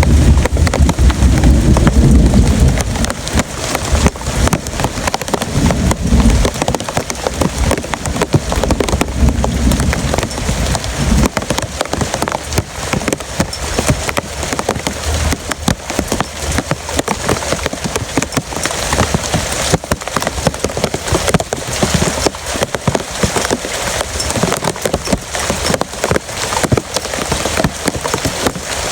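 Heavy rain pouring and drumming on a surface, a dense patter of drops. There is a low rumble during the first few seconds and again briefly about six seconds in.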